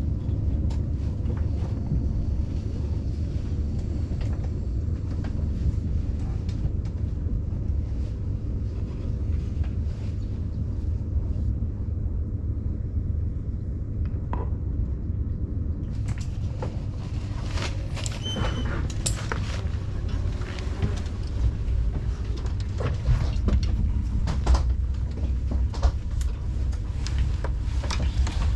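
Steady low rumble of a moving passenger train heard from inside the carriage, with a string of sharp clicks and knocks from about halfway through.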